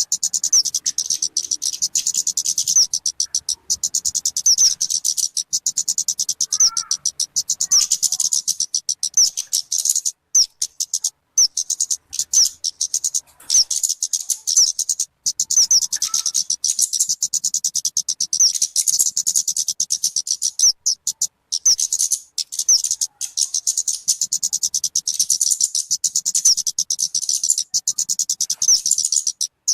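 Recorded calls of the talokan (kemade) bird: a fast, unbroken run of high, thin chirps, paused briefly a few times around the middle, with a few fainter, lower calls mixed in. It is the kind of recording played to lure wild birds or to teach songbirds.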